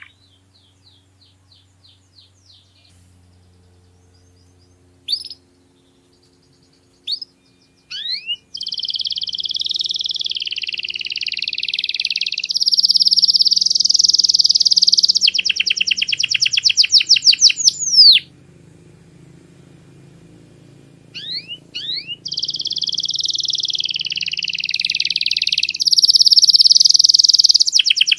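Domestic canary singing: a few soft chips and single notes, then long runs of fast trills and rolling warbled phrases, broken by a pause of a few seconds before another long trilled phrase.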